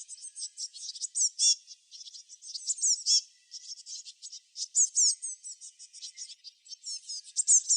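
Several small songbirds chirping at once: a dense run of short, high chirps and quick downward-sliding notes, with brief lulls.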